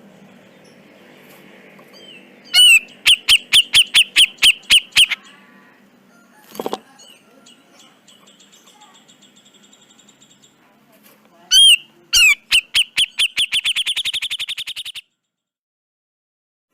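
Cucak jenggot (grey-cheeked bulbul) calling in two runs of sharp, rapidly repeated notes, the second speeding up and fading, with a short lower call between them. The recording cuts off abruptly near the end.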